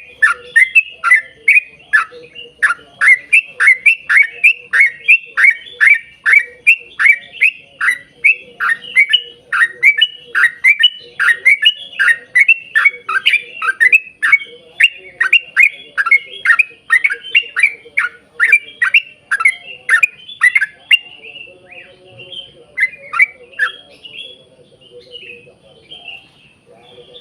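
Yellow-vented bulbul (trucuk) calling in a long rapid run of short notes, each sliding downward, about two a second. The run breaks off about 21 seconds in, a few more notes come near 23 seconds, and then only softer chatter is heard.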